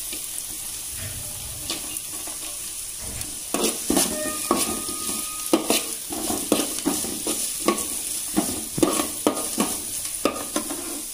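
Chopped onion, ginger and garlic sizzling in hot oil in a metal pot. From about three and a half seconds in, a perforated metal skimmer stirs them, scraping and clinking against the pot in quick repeated strokes.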